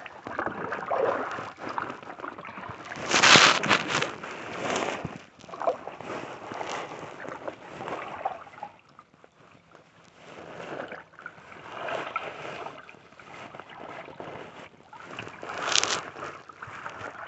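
Kayak paddle strokes dipping and splashing in lake water, coming unevenly every second or two, with the loudest splash about three seconds in and another near the end.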